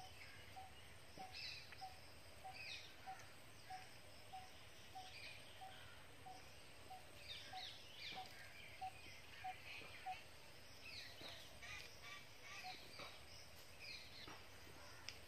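Faint birdsong: scattered short chirps, over a soft note repeated evenly about twice a second.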